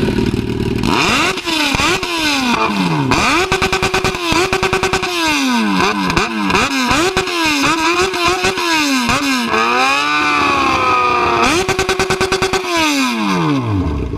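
Sport motorcycle engine revved over and over in quick blips. The pitch climbs fast, holds at a steady top with a rapid stutter, then falls back. About ten seconds in, it runs lower and smoother for a moment before one last rev and drop.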